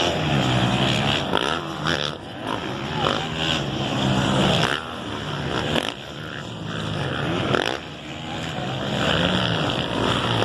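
450cc motocross bikes racing on the track, their engines revving up and dropping repeatedly through throttle and gear changes.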